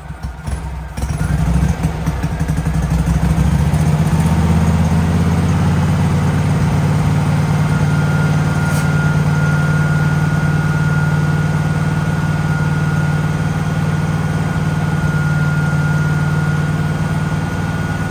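The gas engine of an older Miller Bobcat 250 welder-generator running steadily. It picks up to a louder, fuller run about a second in and sounds like an old Harley. A faint steady high whine joins about halfway through.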